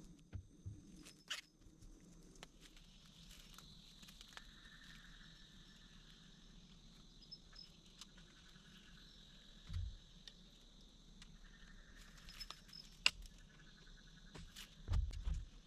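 Rainforest ambience: a steady high insect drone with intermittent trilling, over scattered light clicks and taps of handling, with a soft thump about ten seconds in and more thumps near the end.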